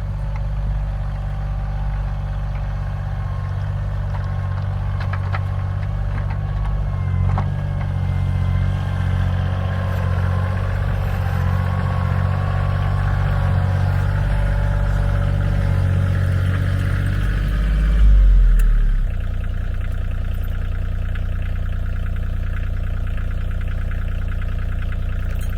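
An engine running steadily. About eighteen seconds in it swells briefly, its pitch falls, and it settles into a lower, steadier sound.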